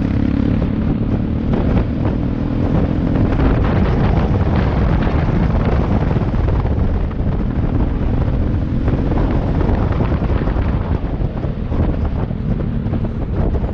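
Motorcycle engine running while riding, with heavy wind buffeting on the microphone. The engine's tone stands out clearly at the start and again in the second half.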